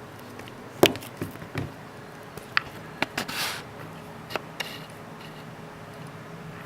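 Sharp clicks and knocks of a smartphone being handled, about seven in the first four and a half seconds, the first the loudest, with a brief rustle near the middle.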